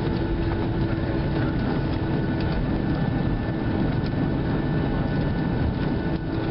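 Steady cabin noise inside a Boeing 737-700 with its CFM56-7 engines running at low power: a constant hum with steady whining tones over it.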